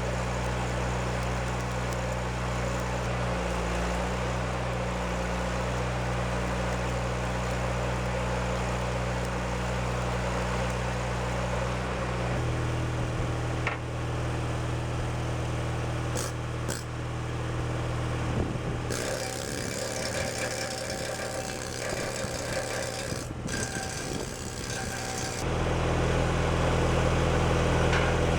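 Engine of a Miller Trailblazer portable engine-driven welder running steadily during stick welding. Its note shifts down about twelve seconds in and picks up, louder, about three seconds before the end.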